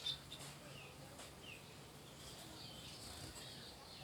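Small cage birds, finches and budgerigars, chirping faintly: a sharp chip at the start, a few short downward-gliding notes, then soft twittering chatter in the second half.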